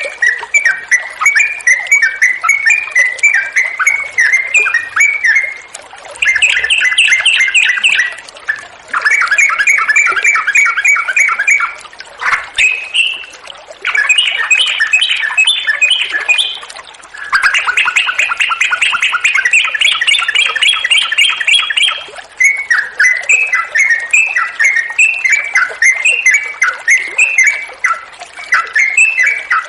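Yellow-vented bulbul (trucukan) singing continuously in fast rolling trills, phrase after phrase of rapid repeated notes with only brief pauses between them.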